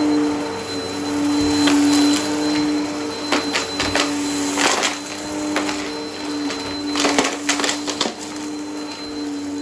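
Vacuum cleaner running with a steady motor hum, crunching and crackling as it sucks up dry debris. The crackles come in irregular clusters, thickest in the middle of the stretch.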